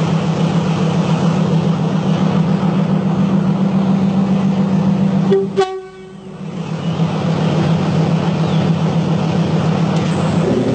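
Diesel commuter train running with a steady low drone. About halfway through a short horn toot sounds and the sound drops away for a moment. Horn tones start again near the end.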